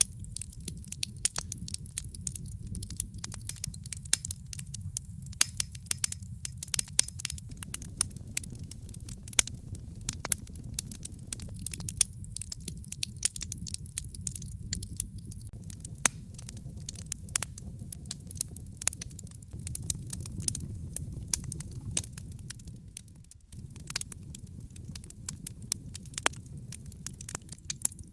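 Wood fire crackling in a fireplace: many irregular sharp snaps and pops over a steady low rumble, which briefly drops away about 23 seconds in.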